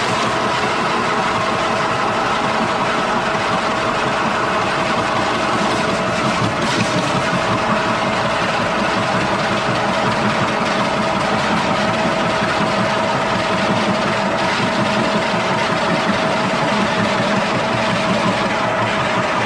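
Woodworking machinery running steadily with a constant tone and even loudness, as used for hollowing out logs for beehives.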